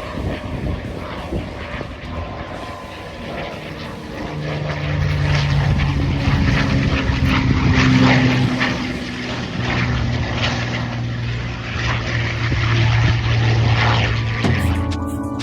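Propeller airplane engine drone passing overhead, growing louder to a peak about 8 seconds in, easing, then swelling again.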